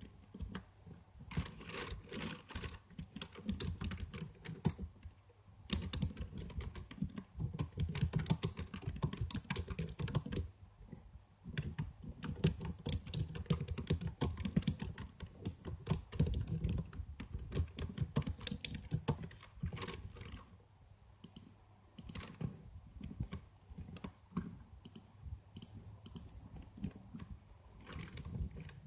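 Computer keyboard being typed on: irregular runs of rapid key clicks, with a few short pauses between bursts.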